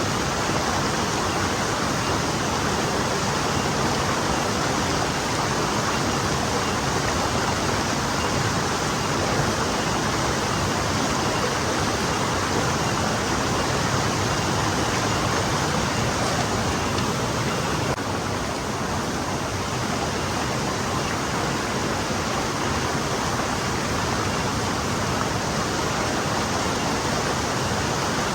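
Forest stream flowing, a steady, even rush of water with a slight drop in level about two-thirds of the way through.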